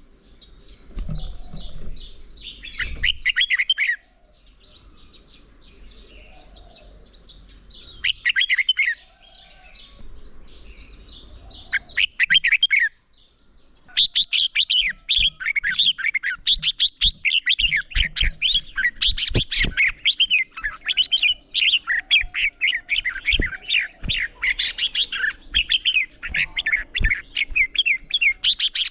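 Red-whiskered bulbuls singing: short bursts of rapid chattering song in the first half, then an unbroken run of song from about halfway to the end, with a few faint low taps underneath.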